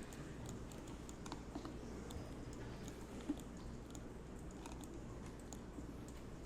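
Scattered, irregular clicks of a computer keyboard and mouse being used, over a low steady hum.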